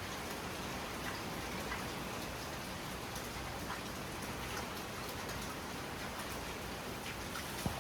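Steady heavy rain falling and pattering on surfaces during a night thunderstorm, with scattered individual drop ticks and one sharper tap near the end.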